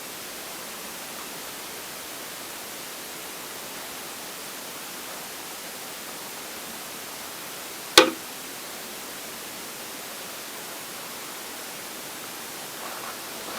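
Steady hiss, with a single sharp click or knock about eight seconds in that rings briefly.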